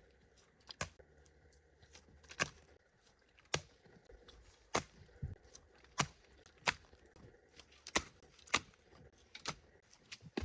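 A hand tool striking wood: about ten sharp, separate chops or knocks at an uneven pace of roughly one a second.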